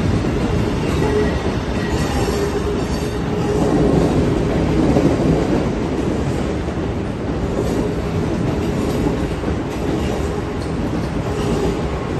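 First-generation Amtrak Acela Express trainset rolling past at low speed, its wheels rumbling and clacking steadily over the rails.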